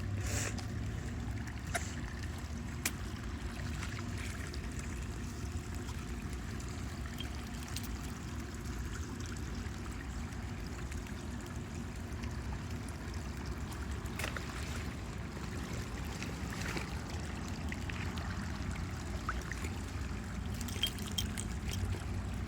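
Steady rushing of a storm-swollen creek in flood, carrying three to four times its normal volume of water.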